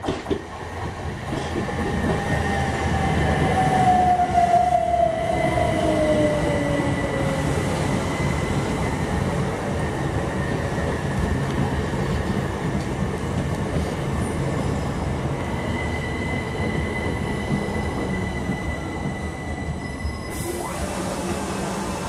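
Electric multiple-unit passenger train running along the platform: steady rumble of wheels on rail, a motor whine that falls in pitch over the first several seconds, and a steady high squeal.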